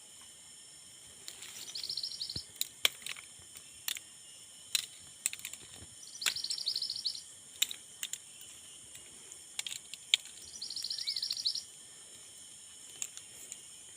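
A songbird giving a short, high, rapid trill of a little under a second, three times about four and a half seconds apart, over a steady high insect-like hiss, with scattered sharp clicks between the calls.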